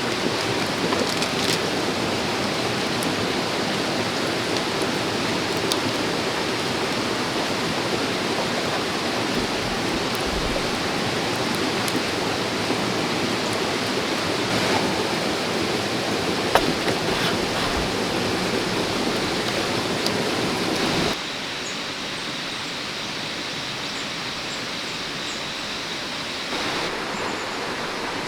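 Steady rush of a flowing stream, with a few faint clicks. About 21 seconds in, it drops abruptly to a quieter, thinner water rush.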